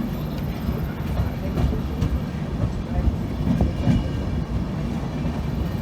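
Passenger train running along the track: a steady low rumble, with a few faint knocks from the wheels on the rails.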